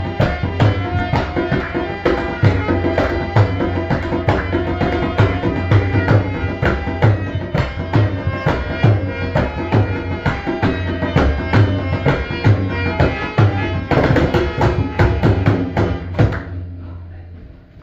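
Tabla playing a fast, continuous rhythm of strokes over a steady low ring. A denser flurry comes near the end, then the sound fades out.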